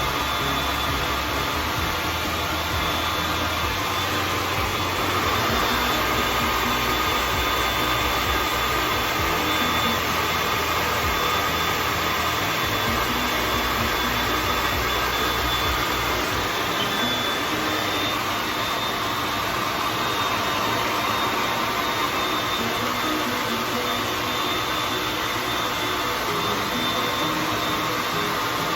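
Handheld hair dryer blowing steadily, drying the glue under a lace front wig.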